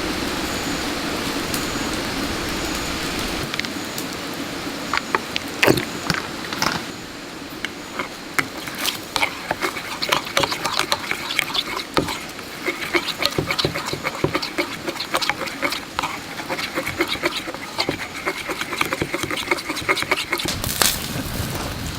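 Wood fire crackling with irregular sharp pops and snaps. It follows a steady rushing noise that stops about three and a half seconds in.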